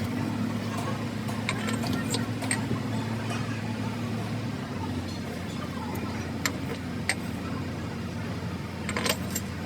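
A steady low engine-like hum runs throughout, with scattered sharp clicks and taps, a cluster of them near the end.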